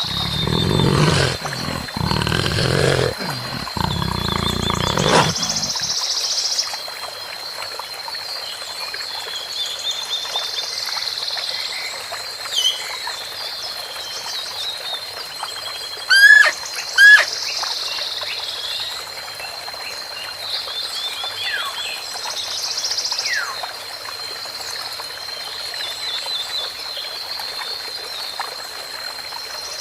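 Outdoor nature ambience: a steady high-pitched trill with scattered bird chirps and whistles, two sharp loud chirps a little past the middle. For the first six seconds a deeper, louder animal sound runs over it, then stops.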